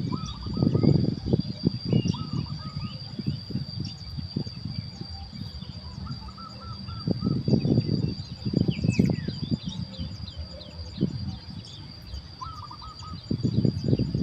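Birds chirping outdoors, with short calls repeated every few seconds. A steady high insect-like drone runs under them, and bursts of low rustling come and go.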